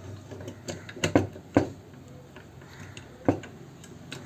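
Several sharp plastic and metal clicks and knocks as the parts of a contactor-type motor starter are handled, two close together about a second in, another soon after and one more near the end, over a faint low hum.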